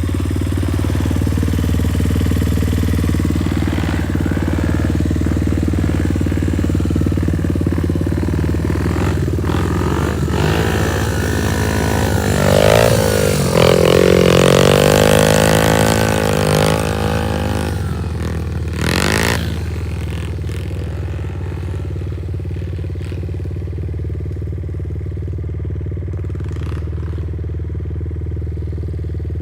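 Small 90cc pit bike engine running, revving up and back down and loudest about halfway through, then settling to a steadier, quieter hum.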